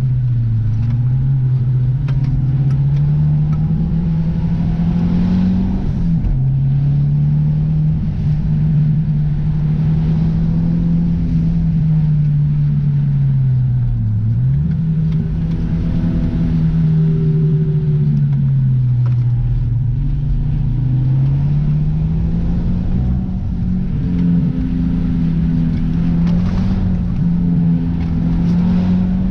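Car engine running on the road, its pitch climbing, holding and falling with the throttle. It drops suddenly about six seconds in, as at a gear change, and again briefly near the middle before climbing back.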